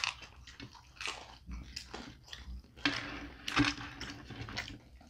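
Close-miked biting and chewing of pizza by two people eating: irregular mouth and chewing sounds.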